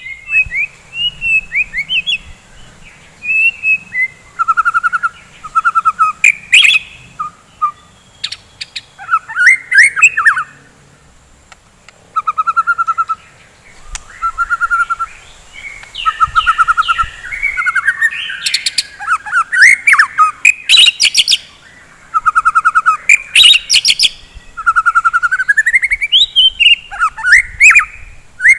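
White-rumped shama singing loudly in varied phrases: fast trills, rising whistles and sharp high notes, with short pauses between phrases and one longer pause near the middle.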